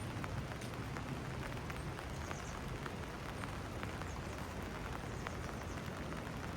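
Steady rainfall, with many single drops ticking sharply close by over an even hiss and a steady low rumble underneath.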